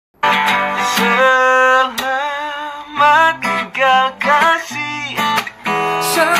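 Song with strummed acoustic guitar and a singing voice carrying a wavering, gliding melody. It starts abruptly just after a brief silence.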